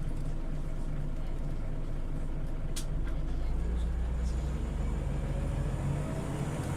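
Scania OmniLink CL94UB city bus engine running, heard from inside the bus as a steady low drone. A sharp click comes about three seconds in, after which the low drone grows louder.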